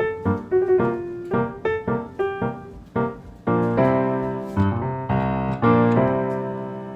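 Background piano music: a run of single notes, several a second, then sustained chords in the second half.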